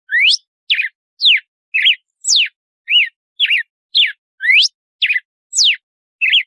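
Red-cowled cardinal (galo-de-campina) singing its 'açoite' song: a fast run of clear whistled notes, about two a second, some sweeping up, some sweeping down, some rising then falling.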